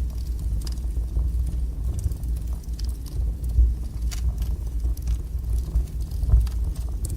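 Wood fire burning strongly in a fireplace: a steady low rumble of flame with scattered sharp crackles and pops.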